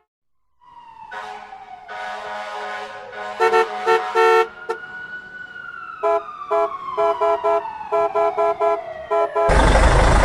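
Cartoon sound effects: a long whistle tone falling slowly in pitch, with runs of short horn-like honks. A loud, noisy rush starts suddenly near the end.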